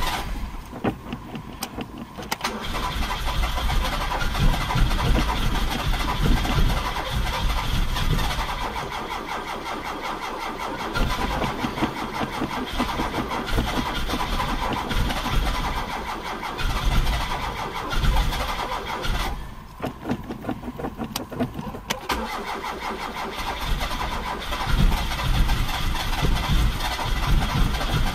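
Toyota RT132's carburettor engine being cranked over on the starter again and again, trying to fire but not starting, with two short breaks between attempts. The owner suspects something is wrong with the carburettor.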